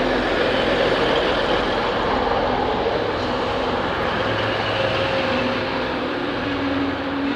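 A diesel train running at the platform: a steady engine drone over a broad rumble, with a faint hum rising slightly in pitch near the end.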